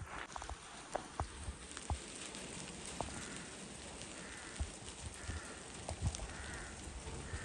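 Steady rain hiss with irregular footsteps and sharp drip-like clicks on a wet forest path. From about the middle on there are a few faint short calls, roughly a second apart.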